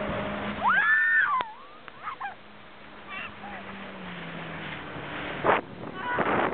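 A jet ski engine idles with a low steady hum. About a second in, a loud high-pitched squealing call rises, holds briefly and falls away. Near the end there is a sharp thump, then a rush of wind and water noise.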